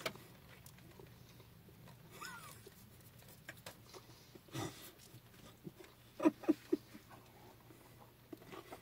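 Close-up eating sounds of sandwiches being chewed: soft clicks and mouth smacks, with a quick run of four louder short smacks about six seconds in, over a low steady hum.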